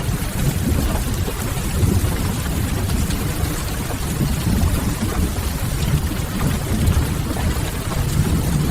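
Steady rain ambience with a deep, constant low rumble, mixed with faint scattered crackles of a wood fire.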